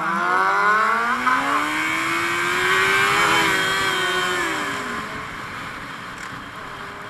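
Inline-four sport motorcycle engine accelerating, its pitch climbing steadily for about three seconds, then dropping as the throttle eases off about four to five seconds in, and quieter after that.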